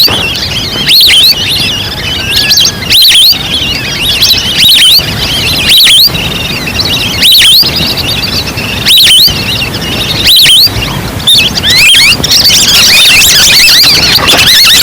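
Duck lure-call recording: a flock of ducks giving many high, overlapping whistled calls. Loud swells of calls come about every one and a half seconds, and the calls run densest near the end.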